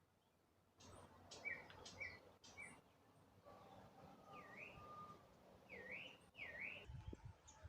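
Faint birdsong: three short chirps, then a held whistle and three swooping notes that dip and rise again.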